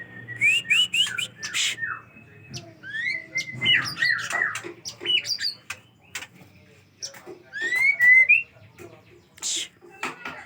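Pet murai songbird singing: short whistled phrases of rising and falling notes mixed with sharp clicks, with brief harsh raspy notes about a second and a half in and again near the end.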